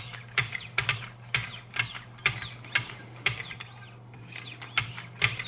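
Lapping-film paddles on a Wicked Edge guided sharpener being stroked along a knife edge. Each stroke gives a sharp tick, about two a second, with a pause of about a second after the middle.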